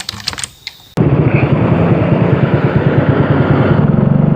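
TVS XL 100 moped's small single-cylinder four-stroke engine running loud, with a fast even pulse that grows steadier near the end. A patter of short clicks comes in the first second, before the engine cuts in.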